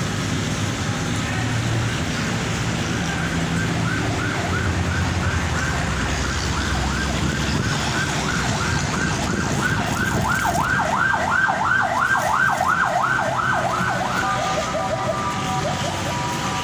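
A siren wailing in rapid rising-and-falling sweeps, about three a second, louder from about ten seconds in, then switching to steady alternating tones near the end. Underneath is a constant background rush of noise.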